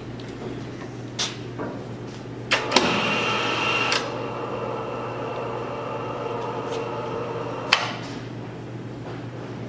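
Lifting machinery running with a steady low hum while a concrete tabletop section is hoisted on a lift bar. A high hydraulic-type whine comes in about two and a half seconds in, loudest for the first second or so, and the whine ends with a sharp metallic clank near the end. A few other clanks fall earlier.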